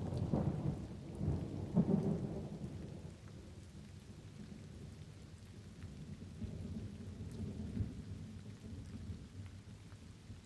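Steady rain with a low roll of thunder that swells over the first two to three seconds and then fades back into the rain. Faint scattered crackles of a wood fire sound through it.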